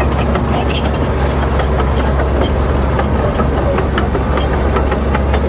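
Heavy earthmoving machine's diesel engine running steadily with a deep low drone, with many short clicks and ticks scattered over it.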